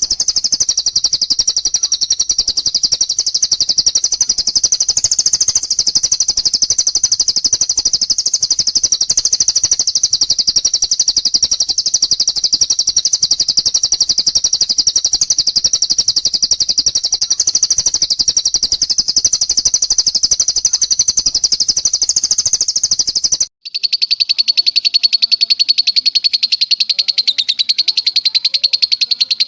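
Recorded songbird trilling: an unbroken rapid-fire run of very high, fast-repeated notes, the long 'tembakan' trill of a bird-training recording. About 23 seconds in it cuts off for an instant and a lower, similarly rapid trill takes over.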